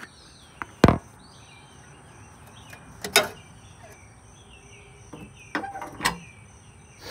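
Handling knocks and clicks as an object is set down and placed: three sharp knocks, about a second in, about three seconds in and about six seconds in, over faint outdoor chirping.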